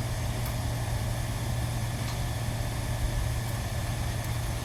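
A machine running with a steady low hum and even background noise throughout.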